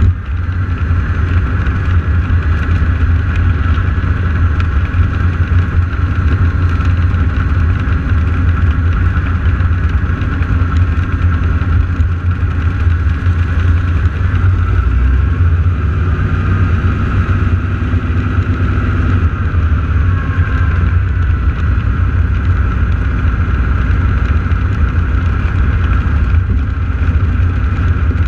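Radial piston engines of AT-6 Texan aircraft running steadily at low power, idling or taxiing before takeoff, with slight wavers in pitch.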